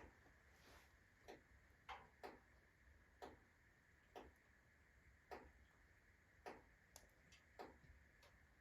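Wood-stove fire crackling faintly: about ten sharp, irregular pops and ticks from a rotten log burning on hot embers.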